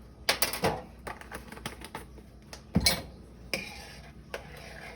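Spoon and kitchen utensils clinking against a cooking pot while seasoning is added to soup: a series of sharp, irregular clinks, with one heavier knock about three seconds in.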